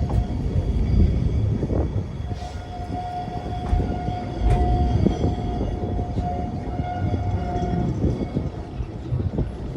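Great Orme Tramway cable-hauled tramcar running on its rails: a steady low rumble with scattered clicks and knocks, and a steady high tone held for about five seconds in the middle.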